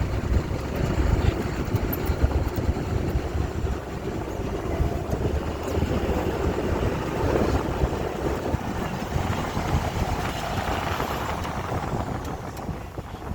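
Amphibious duck boat (a DUKW-style truck) driving over a steep, bumpy hill trail, its engine running with a steady low rumble and the vehicle noise carrying on without a break.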